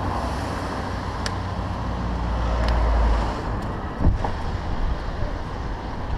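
Bike-mounted action camera's rolling noise: wind on the microphone and a deep rumble that swells and drops off about three seconds in, with a sharp knock about four seconds in.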